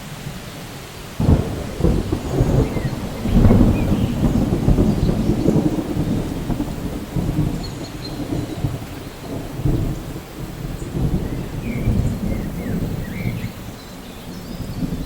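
Rolling thunder that breaks about a second in and rumbles on over steady rain, with a few faint bird chirps.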